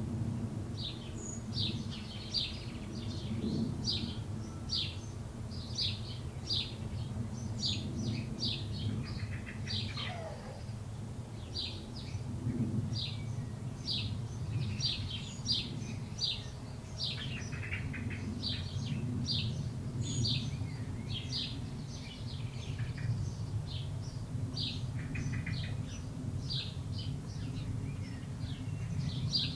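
Many small birds chirping at once, short high chirps coming several times a second without a break, over a steady low rumble.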